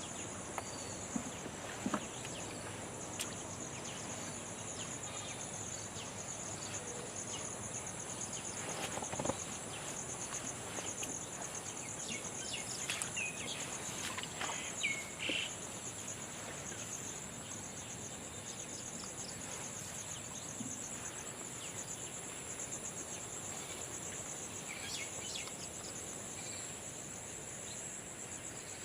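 Steady chorus of insects, a continuous high trill, with a few short bird chirps about halfway through and occasional small clicks.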